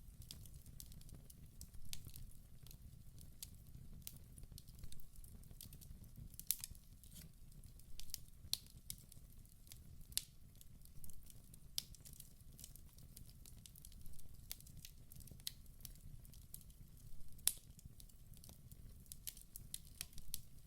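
Wood fire burning in a fireplace: sharp, irregular crackles and pops over a low, steady rumble of the flames.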